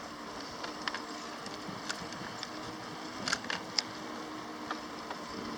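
Bicycle riding noise: a steady hum with a few short clicks and ticks about one second, two seconds and three to four seconds in.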